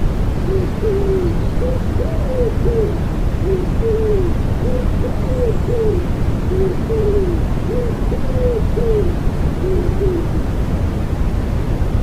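Common wood pigeon cooing, a run of soft repeated phrases of low coos that stops near the end, over a steady hiss of white noise.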